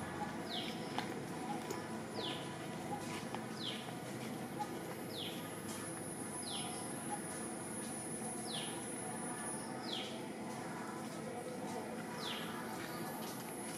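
A bird calling over and over in short notes that each slide quickly downward, about one every second or so, against a steady outdoor background with a thin high hiss.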